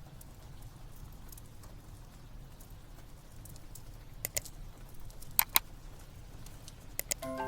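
Wood fire crackling in a fireplace: a low steady rumble broken by a few sharp pops, two close together about five seconds in and two more near the end.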